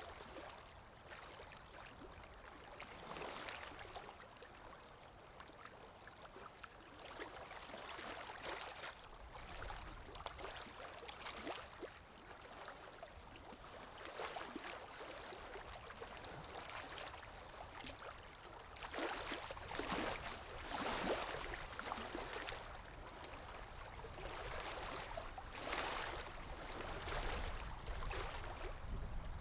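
Water lapping and sloshing in irregular surges every second or two, growing stronger in the second half.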